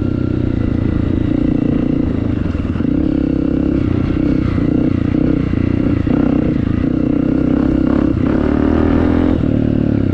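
Honda CRF250F dirt bike's single-cylinder four-stroke engine with an FMF exhaust, running loud under throttle while riding, its note shifting a few times.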